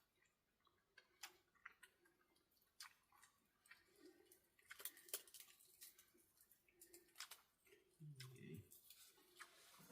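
Near silence, broken by faint scattered clicks and small handling sounds, with a brief low murmur about eight seconds in.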